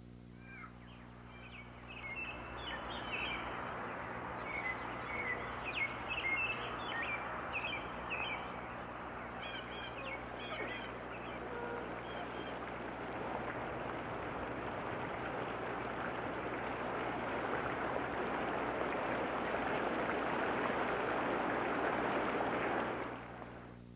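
Rainforest ambience: birds chirp repeatedly over a steady rushing noise in the first half. The rushing grows louder toward the end and cuts off suddenly about a second before the end.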